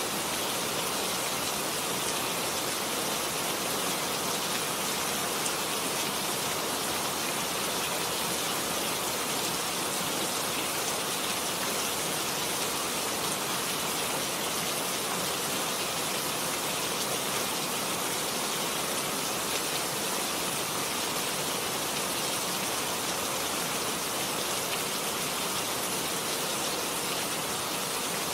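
Steady rain falling on a garden: an even hiss with a fine patter of drops that holds unchanged throughout.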